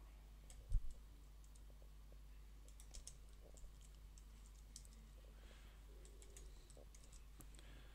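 Faint, scattered computer keyboard typing and key clicks over a steady low hum, with one louder low thump under a second in.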